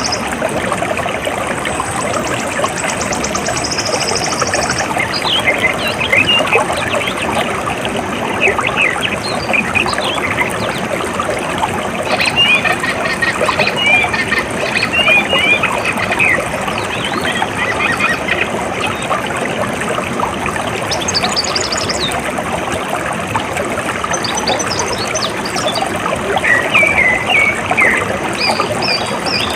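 Water flowing and trickling steadily, with birds chirping in short bursts over it. A high, fast-pulsing trill sounds for the first few seconds.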